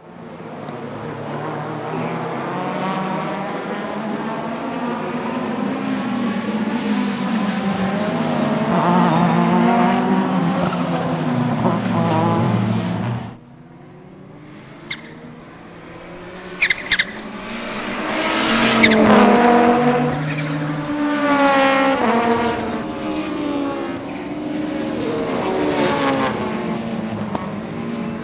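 Turbocharged 2.2-litre five-cylinder engine of a 500 hp Audi 200 Turbo Quattro pulling hard under acceleration, its pitch climbing. About halfway through, it drops off suddenly as the throttle is lifted, with a few sharp chirps from the KKK turbo. It then pulls again, rising and stepping through several gear changes.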